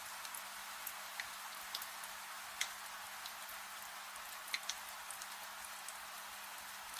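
Steady rain hiss with scattered, irregular sharp clicks and pops, over a faint steady low hum.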